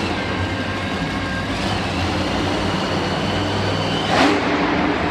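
Monster truck engine running with a steady low drone that echoes through the arena, and a brief louder burst about four seconds in.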